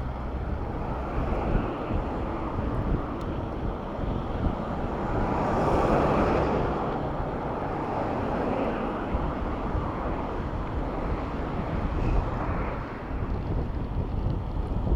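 Road traffic and wind rushing over a bicycle-mounted camera's microphone during a ride through city traffic, with a louder swell near the middle as something passes close.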